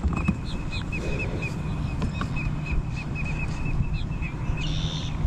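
A bird giving a long run of short, evenly repeated chirps, about three or four a second, with a few higher notes over them and a brief brighter call near the end. Wind rumbles on the microphone underneath.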